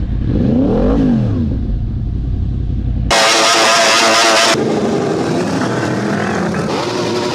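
Motorcycle engines. About a second in, one revs up and falls back. About three seconds in the sound changes abruptly to a loud, high-revving engine for about a second and a half, followed by more engines running.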